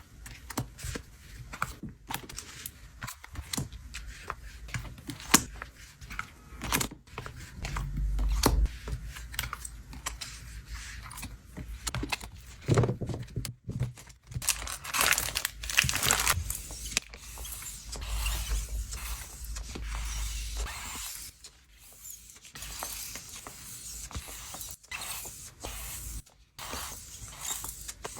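Hands handling paper merchandise and plastic sleeves during storage: a run of small clicks, taps and crinkling rustles. A longer tearing rustle comes about halfway through.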